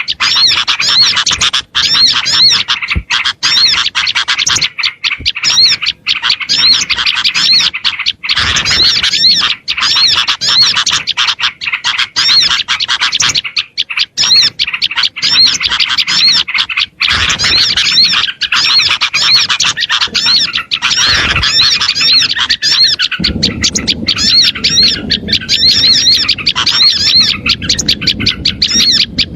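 A dense, unbroken chorus of small songbirds chirping and calling, layered as a bird-lure track to draw small birds in. A low noise joins underneath near the end.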